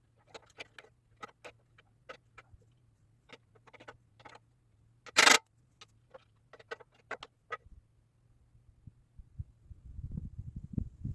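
Scattered light clicks and taps of handling work, with one short, loud burst of noise about five seconds in, then a low, irregular rumbling starting near the end.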